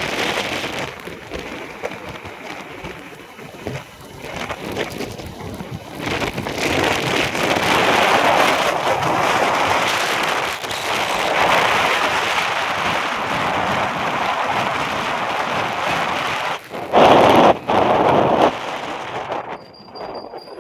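Road noise of a truck going by, a steady rushing of tyres and engine that builds about six seconds in, holds, and swells into a brief louder rush near the end before dying away.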